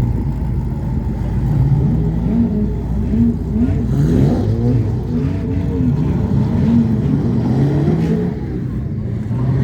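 V8 Hotstox race car engines lapping a short oval: several engines overlapping, their pitch rising and falling over and over as the cars rev out of the bends and lift into them.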